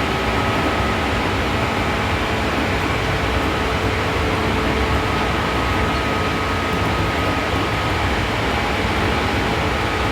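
Seibu New 2000 series electric train running at speed, heard from inside the car: a steady rumble of wheels on rail and running gear with a faint steady whine.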